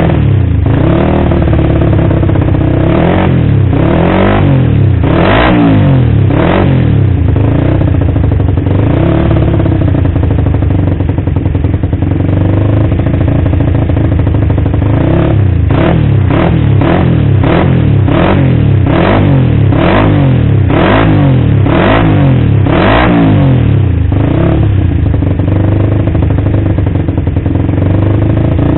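Suzuki Satria FU's 150 cc single-cylinder engine, through an aftermarket exhaust, idling and being revved in repeated throttle blips. There are a few revs early on, then a quick run of short blips about two a second before it settles back to idle.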